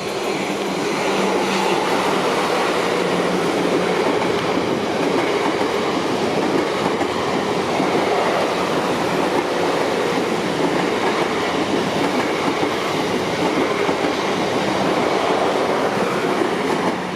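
South Western Railway passenger train to Poole passing over a level crossing: a loud, steady wheels-on-rail rumble with some clickety-clack, and a low steady hum during the first few seconds.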